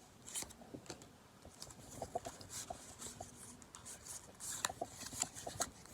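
Pokémon trading cards being handled: faint scattered clicks and soft rustles as the cards are slid and flipped.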